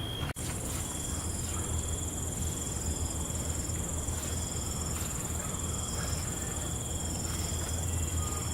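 Night ambience of crickets trilling steadily at high pitch, with several insects at different pitches, over a steady low rumble. The sound cuts out for an instant about a third of a second in.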